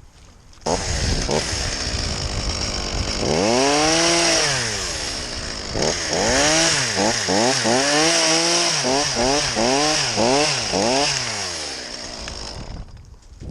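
Two-stroke chainsaw running loudly, its engine revving up and down: one long rise and fall, then quick repeated revs about twice a second, stopping shortly before the end.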